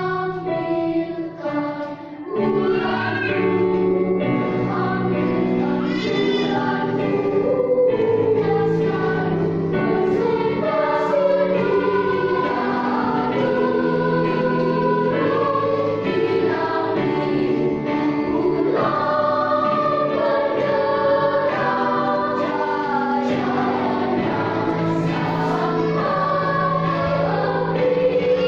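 Children's choir singing a song in several parts, the voices coming in fuller and louder about two seconds in.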